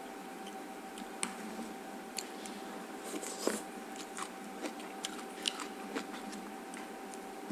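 Close-up chewing and biting of food, with scattered sharp clicks and crunches as wooden chopsticks pick food from a foam takeout box. A faint steady hum runs underneath.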